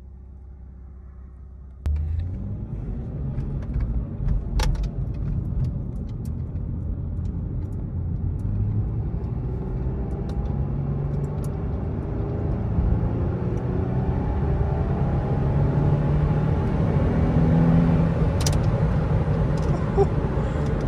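Chrysler 300's V6 engine accelerating hard in sport mode, heard from inside the cabin. The engine and road and wind noise jump up suddenly about two seconds in, then keep building as speed rises.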